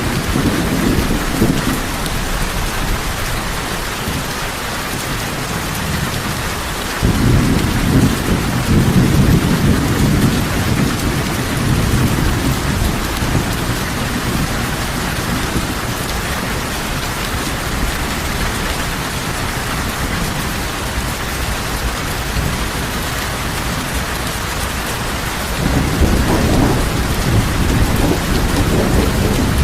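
Heavy rain falling steadily, with low rolls of thunder: one starts abruptly about seven seconds in and rumbles on for several seconds, and another builds near the end.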